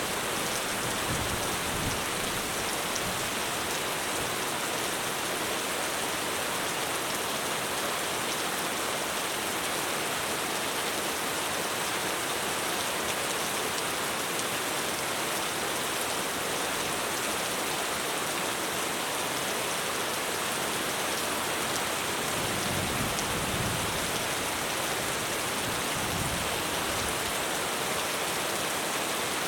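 Heavy rain falling on a roof: a steady, dense hiss.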